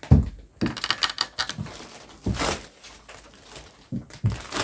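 Plastic packaging around a vacuum-packed hybrid memory foam mattress crinkling and rustling, with a few soft thumps, as the mattress expands and is handled.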